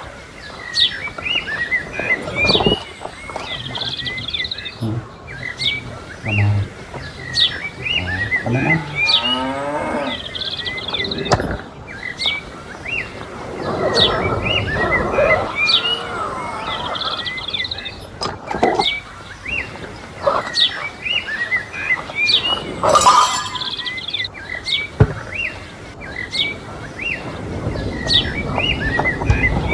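Cattle mooing a few times, with small birds chirping repeatedly throughout.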